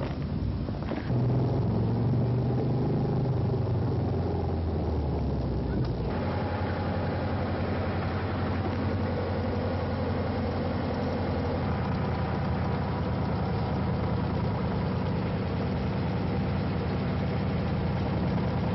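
A car engine running steadily, with a shift in its sound about a second in and again about six seconds in.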